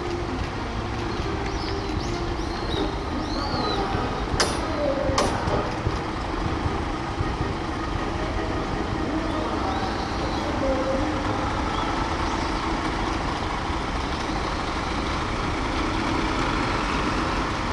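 A column of large police vehicles passing, a steady mix of engine and road noise, with two sharp clicks about four and five seconds in.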